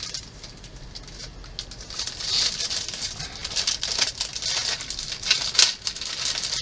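Plastic packaging rustling and crinkling, with light clicks, as a plastic model kit's parts are handled. It comes in irregular swells, louder about two seconds in and again near the end.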